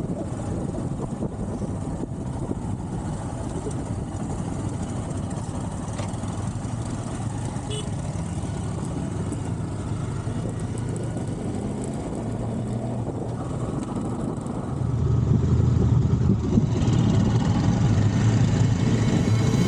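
Motorcycle engine running steadily while riding, getting louder near the end.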